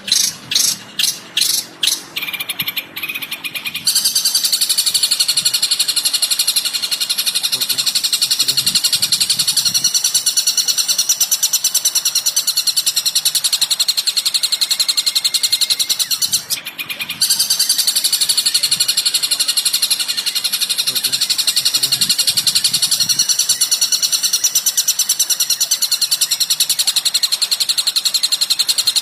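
Recorded bird song from a cendet training track: a few quick sharp notes, then a long, very fast buzzing trill held high. The trill stops briefly about halfway through and then starts again.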